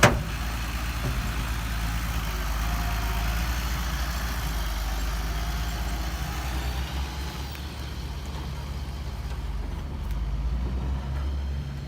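Diesel engine of heavy earthmoving machinery running steadily, with a sharp click right at the start. The engine eases off a little past the middle and picks up again near the end.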